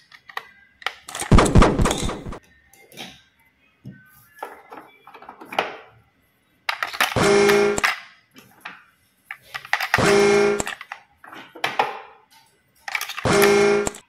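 Plastic toy trains being handled, with scattered small clicks and knocks and a louder clatter about a second in. Three times, at about 7, 10 and 13 seconds, a toy plays a short electronic sound clip with a steady buzzy tone, each lasting under a second.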